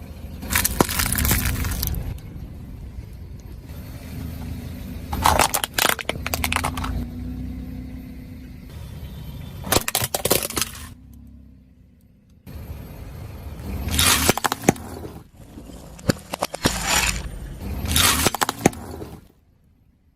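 A car's tyres rolling over and crushing brittle objects: a crackling, snapping crunch, repeated about six times over the low rumble of the car's engine and tyres. Some takes cut off abruptly.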